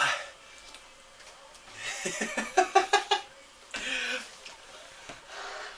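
A person's breathy, non-word vocal sounds. A sharp exhale comes at the start, then about two seconds in a quick run of short pitched pulses, like laughing or gasping, which is the loudest part. Two more breathy exhales follow, one with a low groan.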